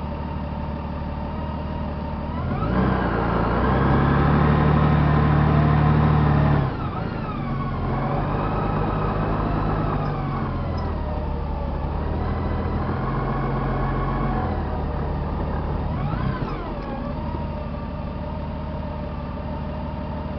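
Honda GL1800 Gold Wing's flat-six engine pulling up a steep hairpin climb. The revs rise sharply about two and a half seconds in, hold for about four seconds, then drop back. A shorter rise and fall comes later.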